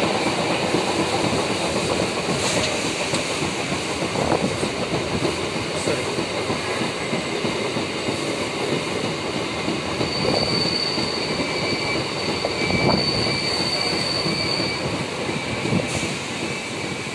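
MEMU electric passenger train running along the track, a steady rumble of wheels on rail. A high wheel squeal rings out from about ten to fifteen seconds in, with a few clicks over rail joints.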